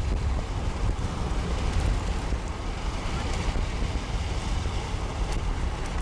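Strong wind buffeting the microphone: a low, gusty rumble that rises and falls.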